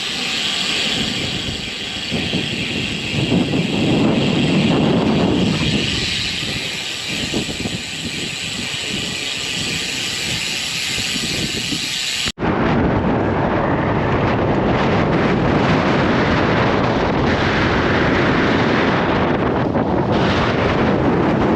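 Strong, gusty wind rushing over the microphone while riding a road bike. The sound changes abruptly about twelve seconds in, where a short dropout marks a cut.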